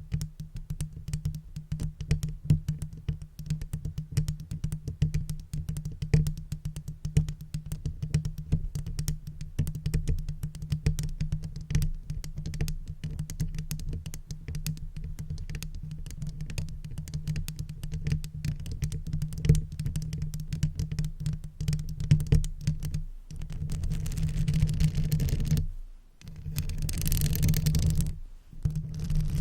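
Rapid, close-miked tapping on makeup brushes and makeup tools, many quick clicks over a low rumble. Near the end this gives way to two longer brush strokes swept over the microphone.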